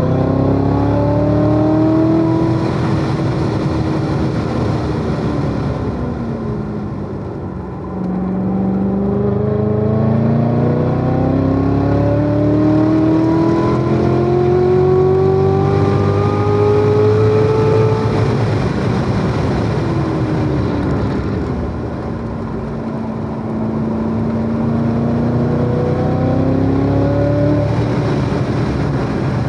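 Chevrolet Corvette C7 Z06's supercharged V8 running hard at lapping pace, its revs rising and falling. The pitch climbs for the first few seconds and drops off to a low point about eight seconds in. It then makes a long climb for about ten seconds, falls again, holds steady for a while and rises again near the end.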